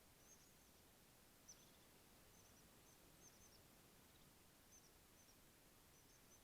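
Faint, high, short bird chirps repeated irregularly over a steady low hiss from the trail camera's microphone.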